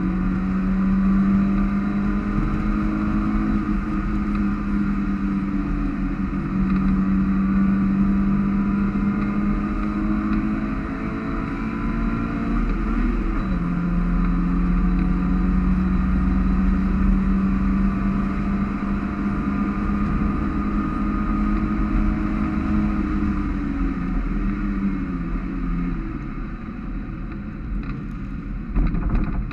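Mazda MX-5's four-cylinder engine heard from inside the car under hard driving, a steady high-revving drone. The pitch dips briefly about halfway through and falls in steps near the end, with wind and road noise underneath.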